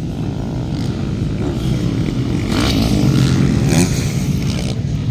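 Motocross bikes' engines running and revving on the track, a steady mixed engine noise with pitch rising and falling.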